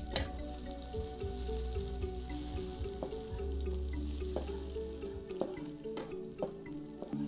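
Chilies and spices frying in an aluminium wok, sizzling steadily, with a metal spatula scraping and knocking against the wok several times as they are stirred.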